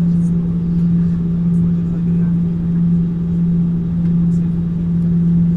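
Steady cabin noise of a jet airliner: a constant low drone with a rumble beneath it that does not change.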